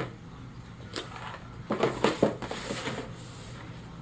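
Cardboard model-kit box being handled and opened: several sharp knocks and taps, about one and two seconds in, and a short rustle in between.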